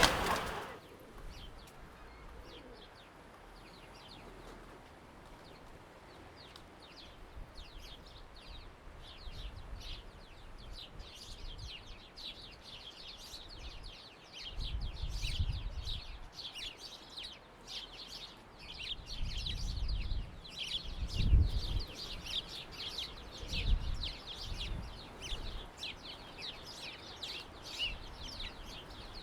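A flock of house sparrows chirping, many overlapping short chirps that thicken from sparse to a continuous chatter after the first several seconds. A few low rumbles come through underneath in the second half.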